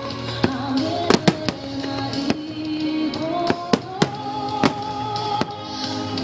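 Aerial fireworks shells bursting, about ten sharp bangs at irregular intervals, over music with slow held melody notes.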